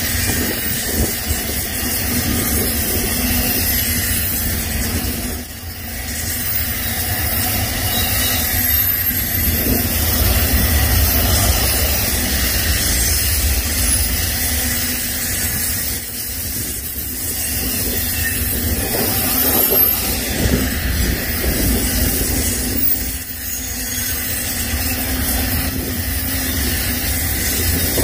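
Freight train rolling past: a steady low rumble under a hiss of wheels on rail, easing briefly twice.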